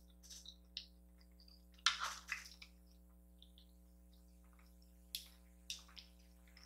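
Close-miked eating: scattered wet chewing and lip-smacking clicks, the loudest about two seconds in, over a faint steady hum.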